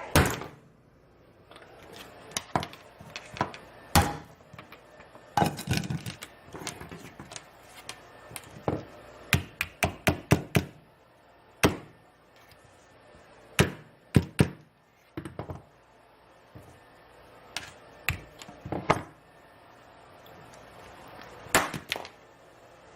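A series of irregular knocks and thuds, some single and some in quick clusters of several strikes.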